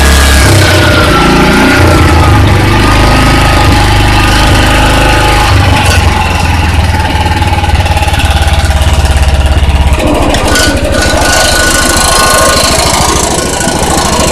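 Kawabe snowblower's Mitsubishi engine running loudly with a rapid low pulsing beat. About ten seconds in, the low rumble drops away and the sound turns thinner and higher.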